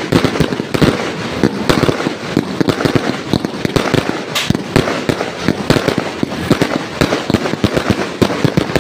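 Fireworks going off in a dense, continuous barrage of sharp bangs and crackles, several reports a second with no pause.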